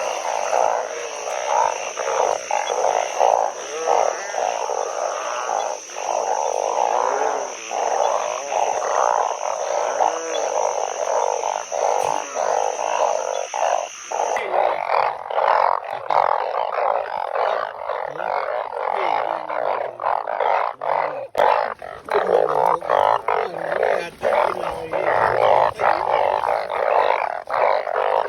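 Dense chorus of many narrow-mouthed frogs (อึ่ง) calling at once, typical of their breeding chorus after rain. A steady high whine sits above the calls until about halfway through, then cuts off suddenly.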